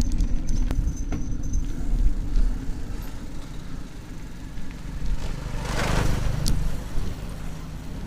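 Steady low wind rumble on the bike-mounted camera's microphone while riding along a road. A motor vehicle passes about six seconds in, its noise swelling and fading.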